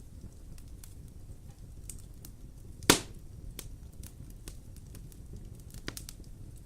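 Wood fire crackling in a fireplace: a low steady rumble with scattered small snaps, one loud sharp pop about three seconds in and a smaller pop near the end.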